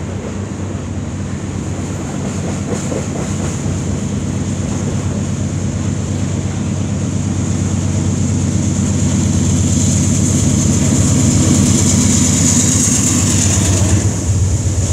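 CN freight train rolling past: the wheels of covered hopper cars run over the rails under a steady low drone. A mid-train diesel locomotive comes by, and the engine sound grows louder through the second half.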